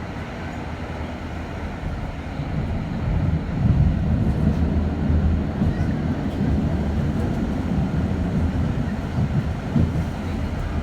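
Düwag M8C articulated tram running, a steady low rumble of motors and wheels that gets louder about two seconds in.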